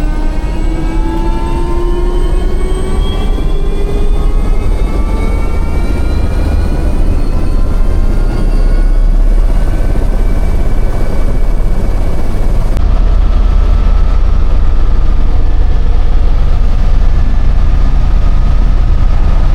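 Helicopter running loud and steady, a heavy low rumble with whining tones that rise slowly in pitch over the first several seconds and then hold level.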